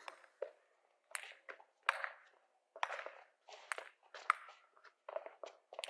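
A series of sharp clicks or taps at irregular spacing, roughly one a second, each with a short hissy tail.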